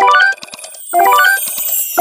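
An electronic sound-effect jingle: a quick rising run of bell-like notes, played about once a second. High falling whistle-like sweeps join in about halfway through.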